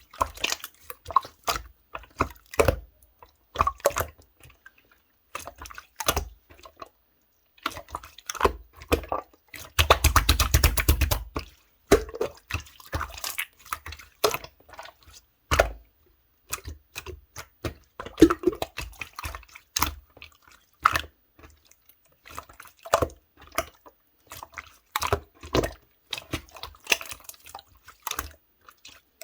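Clear slime being squished and pressed by hand, making irregular wet clicks and pops, with a dense crackling run about ten seconds in.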